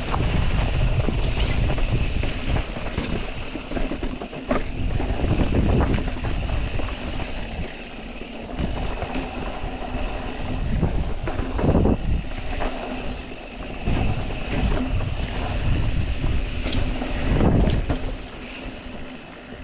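Mountain bike rolling fast down a rocky trail: wind buffeting the microphone in a steady low rumble, with tyre noise and frequent knocks and rattles as the bike goes over rocks.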